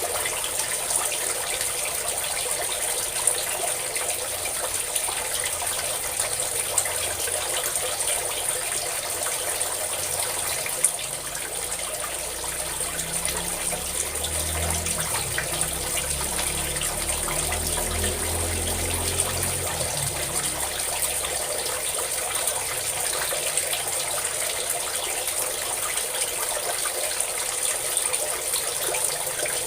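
Steady stream of pouring, splashing water. A low rumble swells and fades in the middle.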